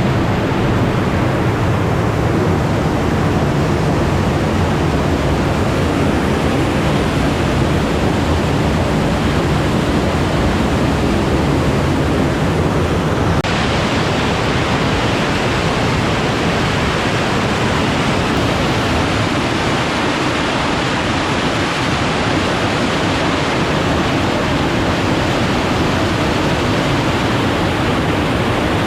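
Large waterfall rushing steadily, a loud, dense wash of falling water. About halfway through, the sound abruptly turns brighter and hissier.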